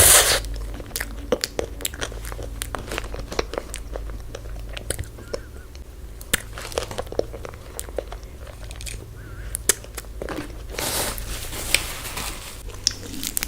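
Close-up eating sounds: biting and chewing chocolate-coated ice cream, with many small crisp crunches. There is a loud crunch right at the start and a longer crinkly rustle about eleven seconds in.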